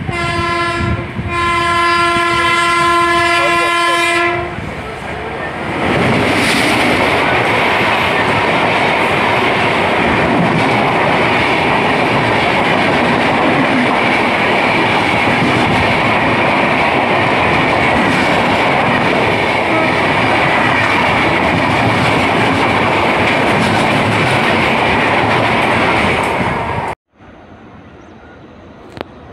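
An Indian Railways electric locomotive horn sounds, a short blast then a longer one of about three seconds. It is followed by the loud, steady rush and wheel clatter of two trains passing each other, heard from the open window of a moving coach, which cuts off abruptly near the end to much quieter sound.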